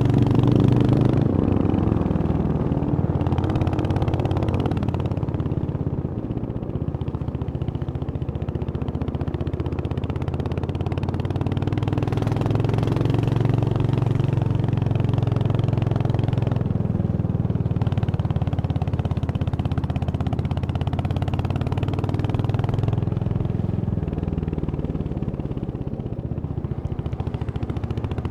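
Royal Enfield Hunter 350's single-cylinder engine running as the motorcycle is ridden, its note swelling and easing slightly with the throttle; louder in the first second or so.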